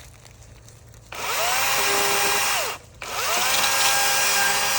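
Electric power saw cutting brush: its motor spins up about a second in, runs steadily, winds down and stops, then spins up again and runs on.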